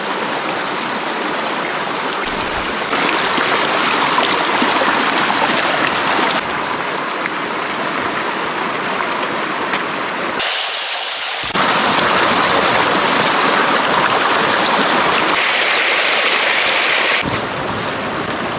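Steady rush of flowing stream water close by, its tone changing abruptly several times.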